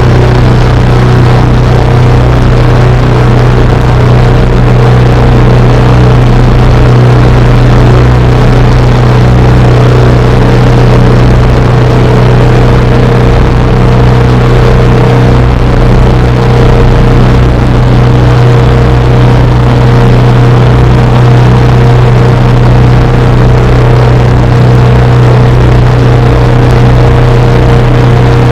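Drone music: a loud, unchanging low drone with a dense layer of noise above it, with no rhythm or breaks.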